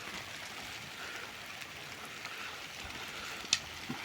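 Steady rain hissing, with one sharp tap about three and a half seconds in.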